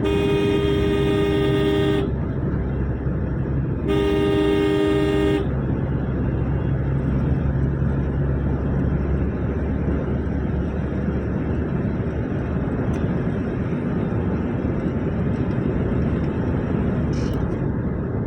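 Vehicle horn sounding two long blasts, about two seconds and a second and a half long, a couple of seconds apart, in a two-tone chord. A steady low rumble of road and engine noise runs beneath and carries on after the horn stops.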